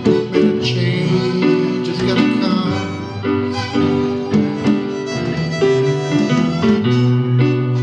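Live band playing an instrumental passage without singing: acoustic guitar with held, sustained melody notes over it, changing every half second or so.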